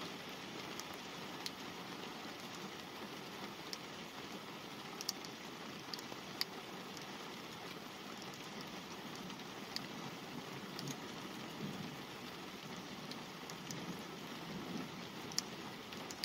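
Light rain falling on a car: a steady hiss with scattered sharper taps of single drops striking the glass.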